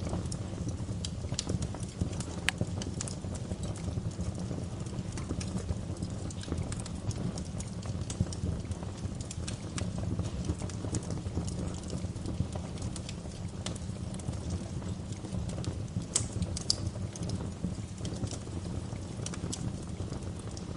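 Bonfire burning: a steady low rumble of flames under irregular sharp crackles and pops from the burning logs, a few louder pops standing out.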